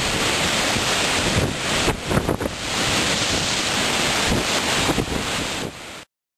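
Gale-force blizzard wind buffeting the microphone in gusts, over the rush of Lake Superior waves breaking on the shore. The sound cuts off abruptly about six seconds in.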